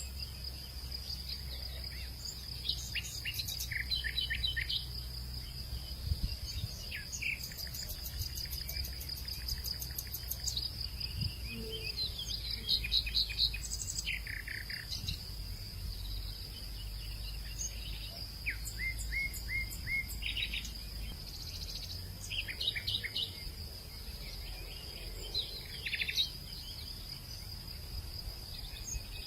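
Birds chirping and calling in many short, scattered phrases and quick trills over a steady high-pitched insect drone, with a low steady rumble underneath.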